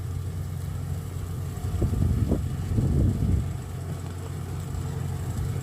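Kubota DC93 combine harvester's diesel engine running with a steady low hum.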